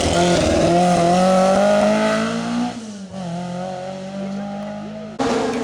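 Rally car engine running hard at high revs, its pitch creeping up, then dropping away about halfway through as the car moves off; the sound jumps back to a loud engine suddenly near the end.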